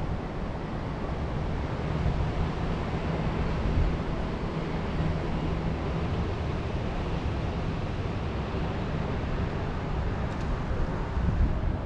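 Wind blowing steadily through a mountain forest, with a low rumble of wind buffeting the microphone.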